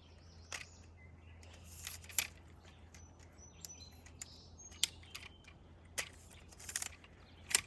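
Sharp plastic-and-metal clicks from a tripod's leg clips being snapped shut to lock the extended legs, about half a dozen spread over several seconds, with faint bird chirps behind.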